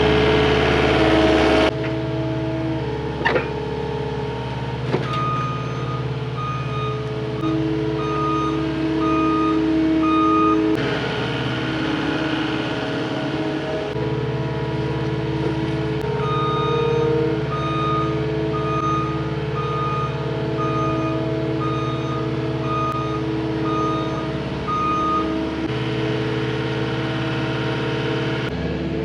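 Cat 259D compact track loader's diesel engine running steadily, its reverse alarm beeping about once a second in two stretches while it backs up. The engine sound shifts abruptly a few times.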